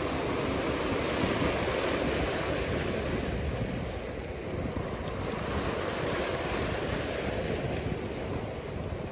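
Ocean surf washing steadily, easing off a little about four seconds in and then building again.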